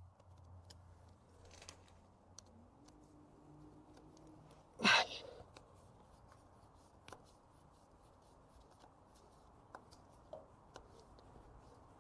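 Faint clicks and small scraping sounds of hands and a tool working on a loose carburettor to tighten it, with one louder short clunk about five seconds in.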